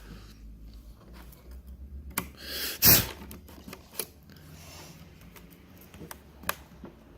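Scattered small plastic clicks and taps as a laptop keyboard is pried up from its retaining tabs, with one short loud breathy burst about three seconds in.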